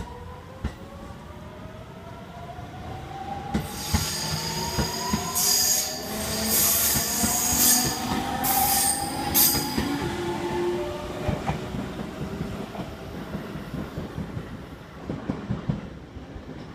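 JR Central 373 series electric train pulling away and accelerating past, its motor whine rising steadily in pitch. High wheel squeal from about 3.5 to 10 seconds in, with wheels clicking over rail joints, then the sound fades as the train leaves.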